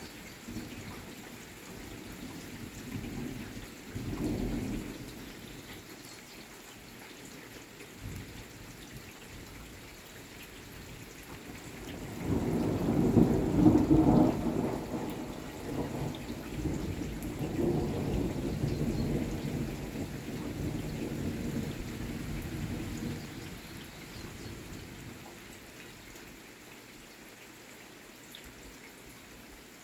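Thunder rumbling over steady rain: a short rumble about four seconds in, then a long, louder roll that builds near the middle and slowly dies away.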